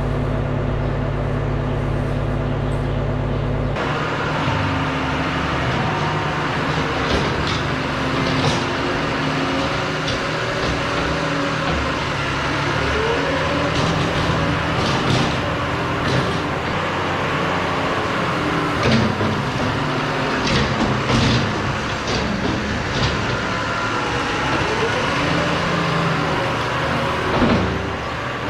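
Engine of a farm machine running loud and steady, used while straw bales are shaken out for bedding. About four seconds in, the steady hum turns into a rougher, busier clatter as the machine works.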